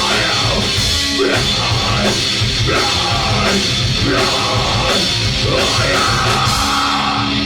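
Live rock band playing loudly, with a full drum kit driving the song.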